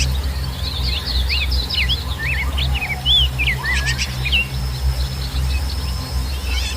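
Several small birds chirping and calling in quick, varied rising and falling notes, thickest in the first four seconds or so, over a steady low rumble. A faint steady high tone joins about halfway through.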